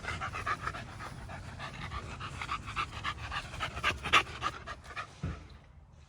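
A dog panting rapidly and rhythmically after play, the breaths stopping about five seconds in.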